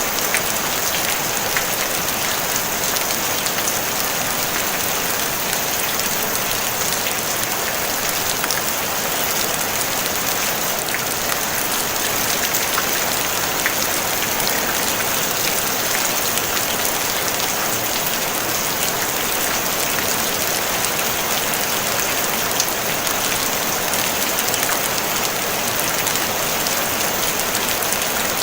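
Steady rain falling on a tin roof: an even hiss with scattered individual drop strikes.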